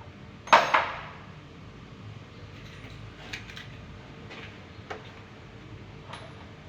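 Two sharp metallic clanks in quick succession about half a second in, then a few lighter clicks and knocks, like tools or metal parts being handled and set down.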